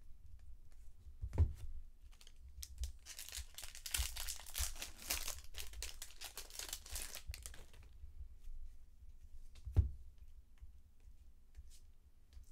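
Trading-card pack wrapper being torn open and crinkled for about five seconds, with a thump shortly before and another near the end.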